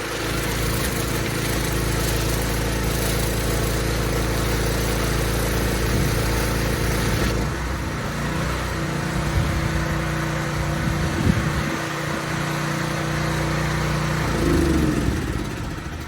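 Petrol pressure washer engine running steadily, with the hiss of the water jet over it for the first half; the hiss stops about halfway through and the engine runs on with a changed note, rises briefly and dies away near the end.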